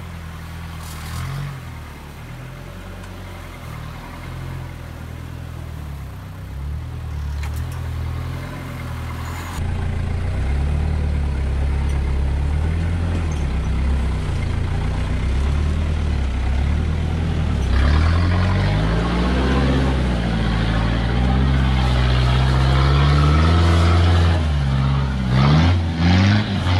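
Toyota Hilux's 3.0-litre turbo-diesel engine running at low revs under load while crawling off-road, its pitch rising and falling with the throttle. It gets louder about a third of the way in, and the revs climb in a few quick rises near the end.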